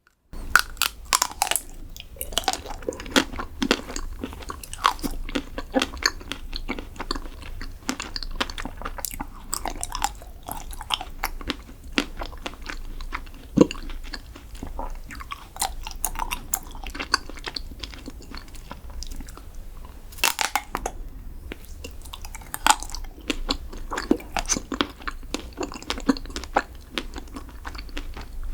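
Close-miked eating of chocolate desserts: biting and chewing with many sharp, crisp crunches and crackles. It begins abruptly just after the start.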